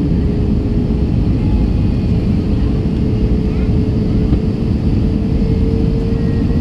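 Airbus A321 on final approach heard from inside the cabin: a steady, loud rumble of airflow and engines, with a thin steady hum that rises slightly in pitch near the end.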